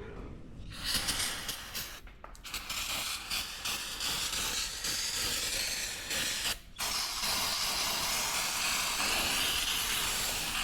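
A long, loud hissing spray of pressurized air or liquid, starting about a second in, with two brief breaks, near two seconds and near seven seconds.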